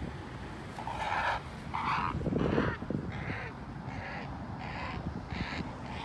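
A bird giving a series of harsh calls, about seven in a row, each roughly half a second long, over low wind rumble.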